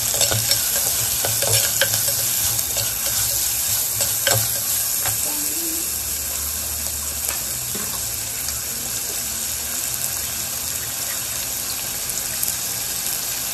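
Chopped onions, green chillies and curry leaves sizzling steadily in hot oil in a clay pot, the base being sautéed for sambar. During the first few seconds a stainless steel slotted ladle stirs them, clicking and scraping against the pot.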